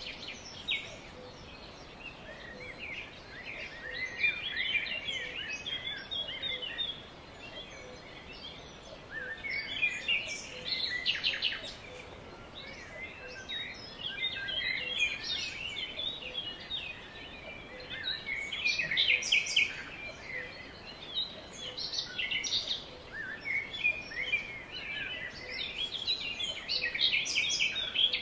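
Songbirds singing: spells of quick, twittering chirps and trills lasting a few seconds each, with short pauses between them, over steady outdoor background noise.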